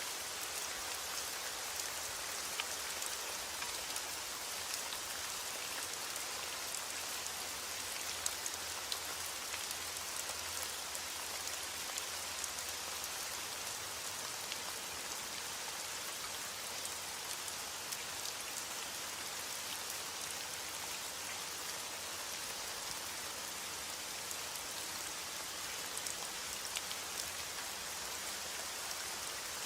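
Steady rain: an even hiss with scattered sharp ticks of individual drops striking a surface.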